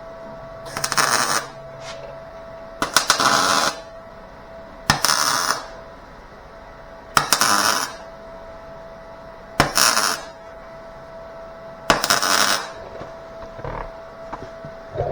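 Welder laying a series of tack welds on sheet-metal body panel: six short crackling bursts of about half a second each, roughly two seconds apart, with a steady faint tone underneath.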